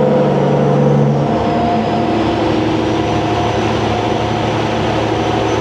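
Semi truck's diesel engine running under way through 8-inch exhaust stacks, with a high turbo whistle wavering above it. A steady, horn-like tone over the engine cuts off sharply about a second in.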